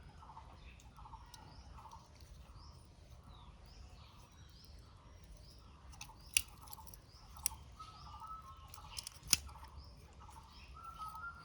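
Birds calling over and over in a quick, even rhythm, with a couple of short whistled notes near the end. A few sharp clicks or taps break in around the middle, the loudest about nine seconds in.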